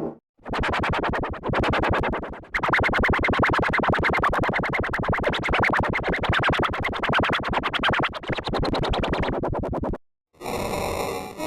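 Heavily processed, synthesizer-like edited audio with a fast, even stutter of about ten pulses a second. It breaks off briefly about two and a half seconds in and again near the end.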